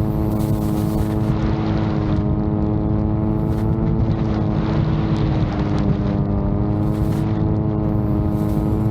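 VTOL drone's propulsion in flight, a steady propeller drone that dips slightly in pitch about five or six seconds in, with strong wind buffeting the microphone.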